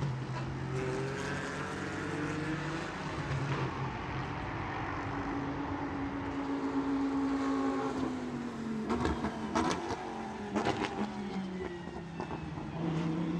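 Racing engines running at speed, their pitch sliding up and down as cars go by, with a few sharp clicks about nine to eleven seconds in.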